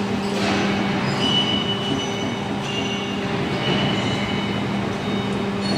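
CNC hydraulic profile bending machine running with a steady hum, broken by several short high-pitched squeals.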